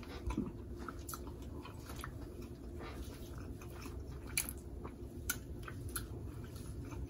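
A person chewing a mouthful of seafood-boil food, with soft wet mouth clicks and smacks scattered through.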